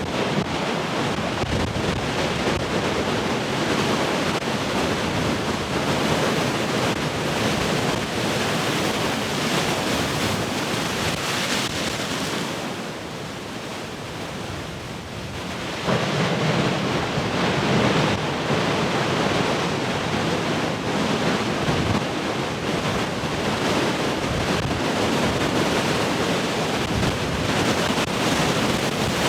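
Heavy ocean surf: big waves breaking and washing in a continuous roar, with wind buffeting the microphone. The surf eases for a few seconds past the middle, then a new wave crashes in.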